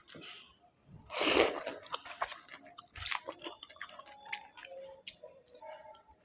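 Close-up mouth sounds of a person eating a chicken biryani meal: chewing with wet clicks and smacks, and one loud bite about a second in.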